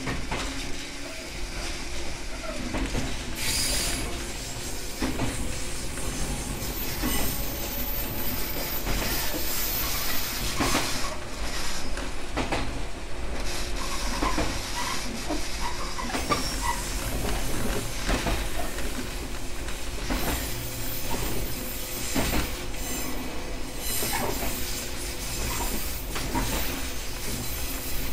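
Running sound heard on board a JR West 123 series electric railcar in motion: a steady rumble of wheels on rail with clicks over the rail joints, and a thin high wheel squeal at times.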